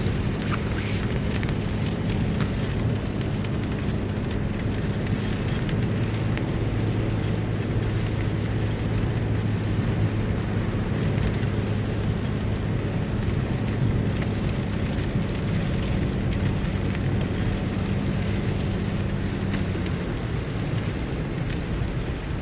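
Car driving on a wet road in the rain: a steady engine drone under an even hiss of tyres and rain.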